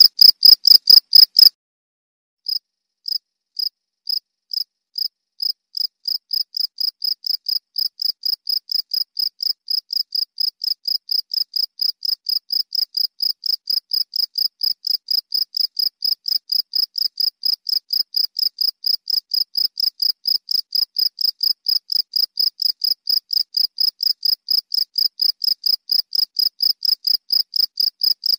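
Cricket chirping in steady, evenly spaced high-pitched chirps. One loud stretch of chirping breaks off about a second and a half in, and after a short pause another cricket starts, slowly at first and then about three or four chirps a second, growing slightly louder.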